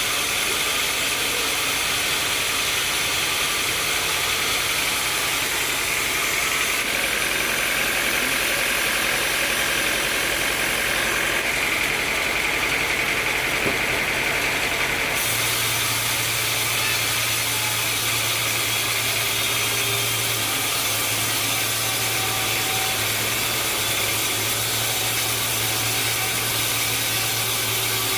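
Sawmill machinery running steadily: a constant engine-like drone with a hiss over it. The tone shifts abruptly about 7 and 15 seconds in.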